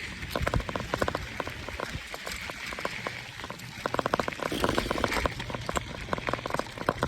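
Bike tyres rolling fast over a dirt trail, with irregular clusters of crackles and snaps over a steady low rumble.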